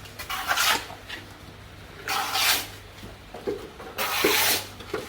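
Plastering trowel scraping cement mortar across a wall, a rasping stroke about every two seconds, with light knocks between strokes.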